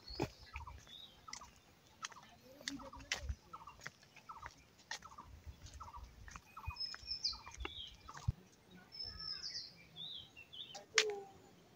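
Birds calling: a run of short repeated notes for the first five or six seconds, then higher, falling chirps, over faint scattered clicks.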